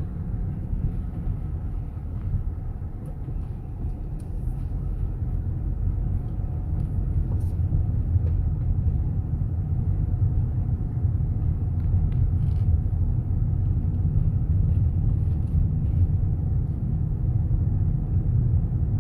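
Steady low rumble of a car driving, heard from inside the cabin: engine and road noise that grows a little louder after about six seconds.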